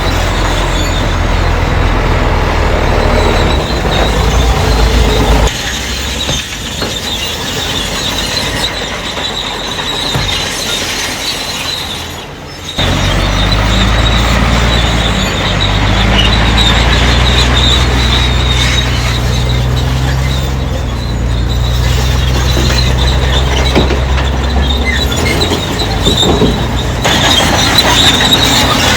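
Crawler bulldozer at work: a diesel engine runs with a deep steady hum while the steel tracks squeal with a high screech. The sound changes abruptly about five and thirteen seconds in.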